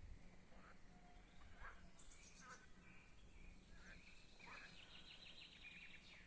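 Faint birdsong: small birds giving short high chirps and quick descending trills.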